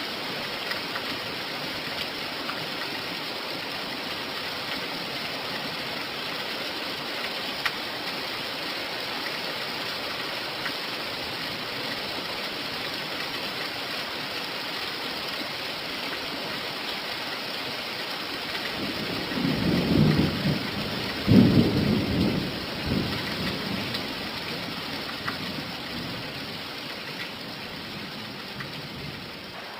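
Steady rain falling, with scattered drop ticks. About twenty seconds in, a low rumble of thunder rolls for several seconds and is the loudest sound.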